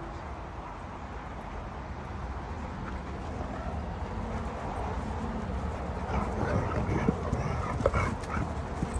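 Two dogs playing together, giving short dog vocalisations over a steady low background, busier in the second half.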